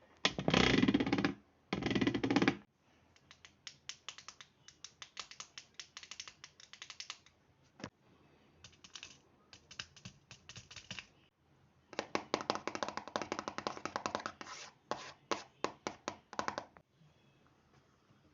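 Rapid tapping and clicking: two loud, dense runs of crackling clicks in the first few seconds, then clusters of quick, lighter taps and clicks with short pauses between them.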